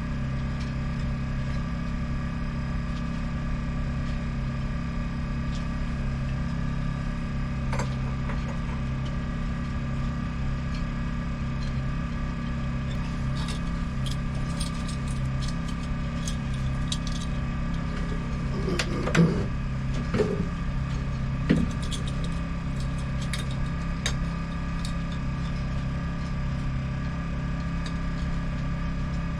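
A machine runs with a steady, even drone. Light clicks and a few sharper knocks come in about two-thirds of the way through.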